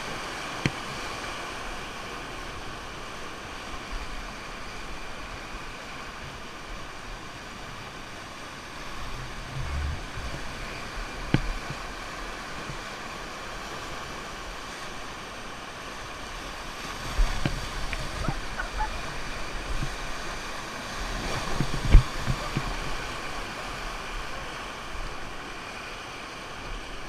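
Steady rush of river water, broken by a few sharp knocks now and then, the loudest about four-fifths of the way through.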